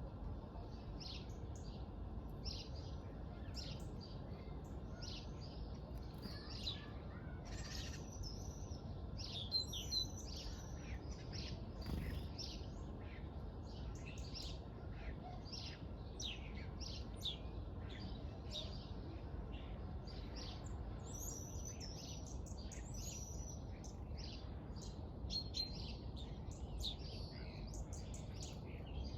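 Birds chirping, with many short, high notes repeating throughout over a steady low rumble of background noise.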